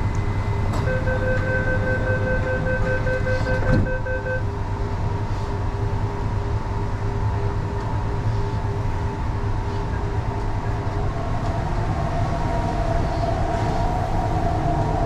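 MTR East Rail line R-Train running, a steady rumble of wheels on track. A set of steady electrical tones sounds for the first few seconds and stops abruptly, and a higher traction-motor whine comes in near the end.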